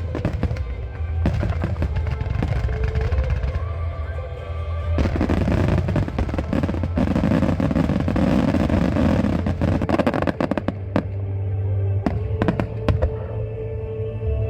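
Fireworks finale: a rapid barrage of bursts, thickening into a dense crackle about five seconds in, then thinning to separate bangs for the last few seconds. Music with held notes plays underneath.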